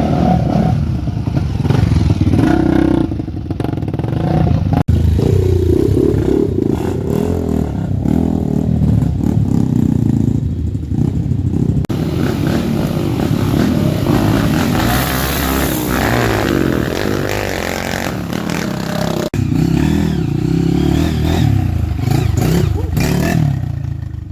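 Off-road motorcycle engines revving hard and unevenly, rising and falling in pitch again and again, with some clatter. The sound changes abruptly three times.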